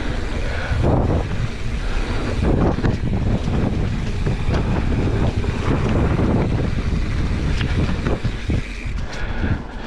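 Wind buffeting the microphone and tyres rumbling over a dirt trail on a mountain bike descent, with scattered knocks from bumps and landings. Near the end the noise eases somewhat.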